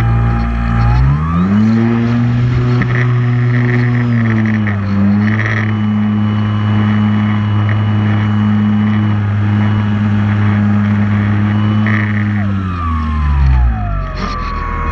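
Multirotor drone's motors and propellers humming, rising in pitch about a second in, holding steady, then dropping near the end.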